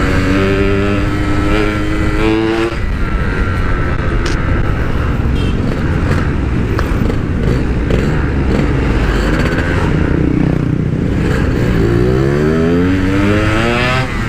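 Yamaha RX-King's 135cc single-cylinder two-stroke engine under way through a stock-style sheet-metal exhaust. The revs climb for about two and a half seconds and drop at a gear change, hold through the middle, and climb again over the last couple of seconds.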